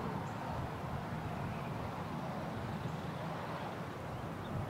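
Steady low rumble of the train's diesel locomotives approaching in the distance, mixed with outdoor wind noise, with a few faint bird chirps.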